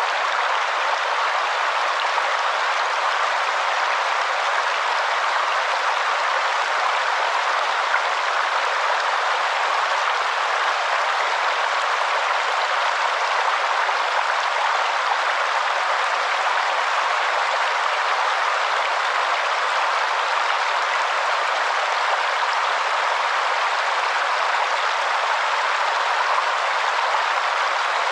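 Waterfall: a steady, unchanging rush of falling water, with little deep rumble.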